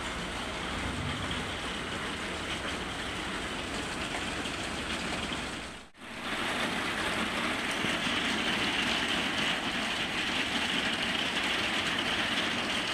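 Steady rain, a continuous hiss that drops out briefly about six seconds in and comes back louder.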